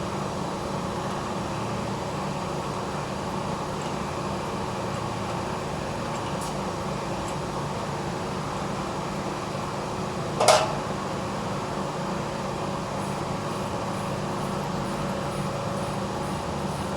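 Display chiller's refrigeration unit running, a steady mechanical hum of compressor and fans. A single brief loud burst stands out about ten and a half seconds in.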